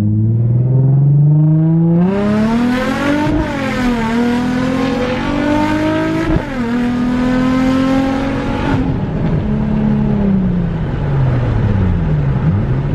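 Nissan VQ-series V6 car engine at full-throttle acceleration, revs climbing and dropping sharply on two upshifts, held for a couple of seconds, then falling as the driver lets off about nine seconds in.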